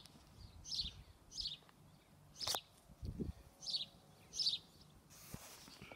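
A small bird chirping repeatedly, short high notes about once a second, with a brief dull thump about halfway through.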